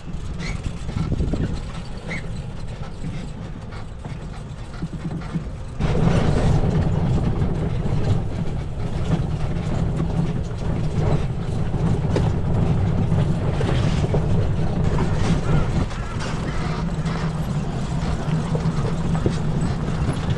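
Electric UTV driving along a rough dirt track, its chassis bumping and rattling over a steady low rumble. The rumble and rattle get suddenly louder about six seconds in.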